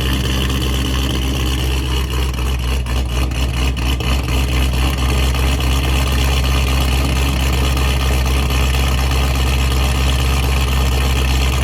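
Corvette ZR1's cammed V8 idling on E85 after a cold start, through an ATAK exhaust. The idle turns uneven and choppy between about two and four seconds in, then settles back to a steady note.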